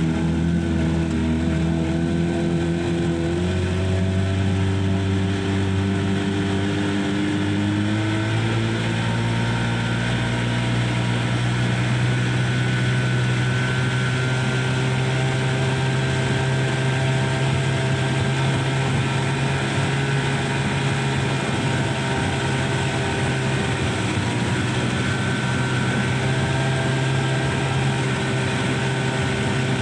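Boat motor running under way; it speeds up in two steps in the first eight seconds, then holds a steady speed.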